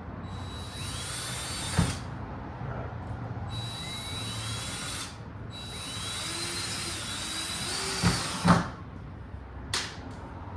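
Power drill running in three bursts, each one a high whine that starts and stops, followed by a few sharp knocks near the end.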